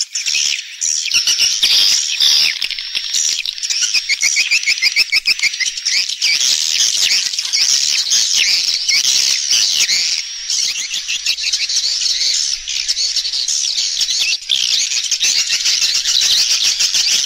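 Dense chorus of edible-nest swiftlets twittering, fast high-pitched chirps and trills overlapping without pause. It is a swiftlet roosting call, the kind played to lure swiftlets into a nest house.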